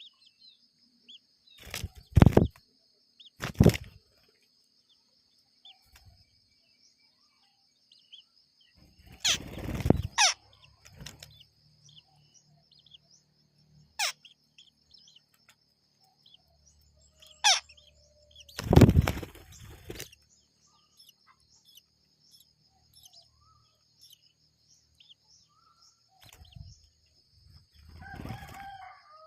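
Shrikes at their nest: four loud, brief bursts of fluttering and rustling and a few short sharp chirps, over a steady high insect drone.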